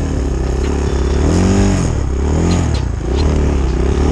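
Dirt bike engine revved up and down about four times in a row, the bike stuck in deep snow.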